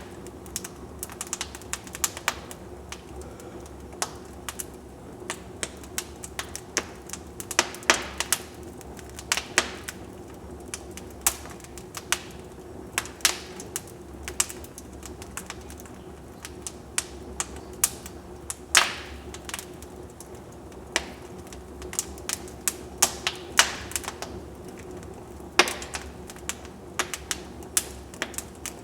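Wood fire in a fireplace crackling: irregular sharp snaps and pops, a few of them louder, over a low steady background.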